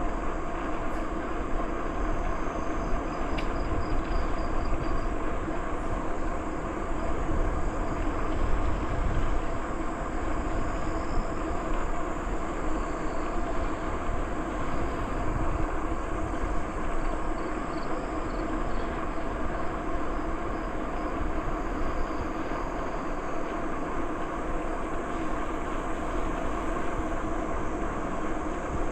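Steady riding noise of a bicycle in motion: tyres rolling on the trail with a constant low wind rumble on the microphone.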